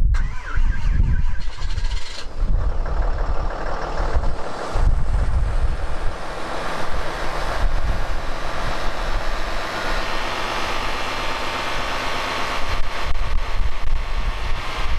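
Cummins turbo-diesel straight-six in a 2018 Ram 5500 catching on a 0°F cold start with no block heater, only the intake preheat cycle, then running at a steady cold idle.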